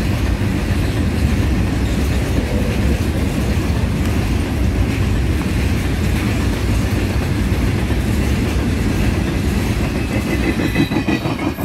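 A freight train's covered goods wagons rolling past close by: a steady, loud rumble of steel wheels on rail with clickety-clack over the rail joints. Near the end a faint high whine joins in.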